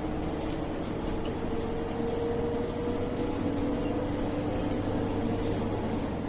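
MAN A21 city bus heard from inside while under way: a steady drone of the engine and drivetrain, with a whine that rises slightly over the first couple of seconds and then holds.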